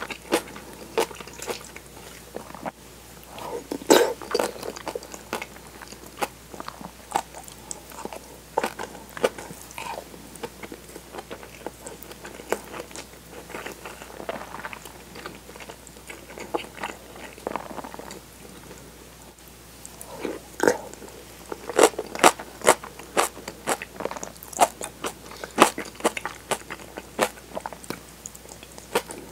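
Close-miked eating of kimchi on chilled tofu with soft-boiled egg and rice: chewing and crunching bites with many sharp mouth clicks, louder about four seconds in and again in the last third.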